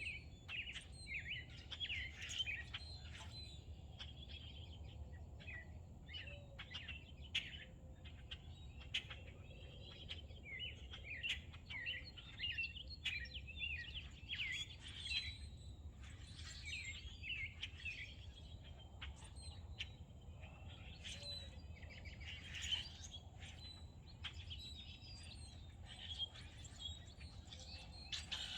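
Several songbirds chirping and singing, many short calls overlapping without a break, over a low steady hum.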